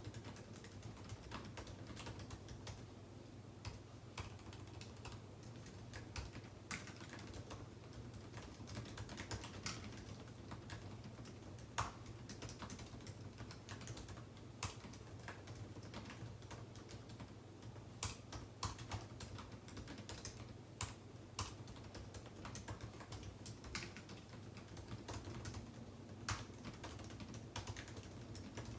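Typing on a computer keyboard: irregular, faint key clicks in uneven bursts, over a steady low hum.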